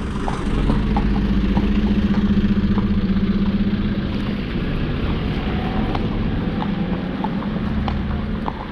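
A motor vehicle engine running close by, a steady hum that is loudest in the first half and eases off after about four seconds. Scattered clicks of horses' hooves on the road run alongside it.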